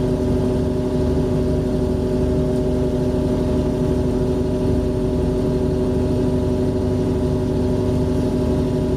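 Yacht's engine running at a steady speed as the boat motors against the tide, a constant hum with an even, unchanging pitch over a low rumble.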